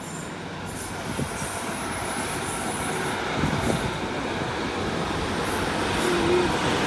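Class 153 diesel multiple unit pulling out of the station, its engine and wheels on the rails growing steadily louder.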